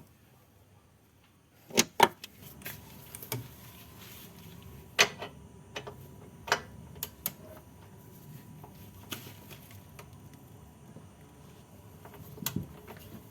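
Scattered sharp clicks and knocks, as of tools and car parts being handled, with the loudest about 2, 5 and 6.5 seconds in and a short cluster near the end.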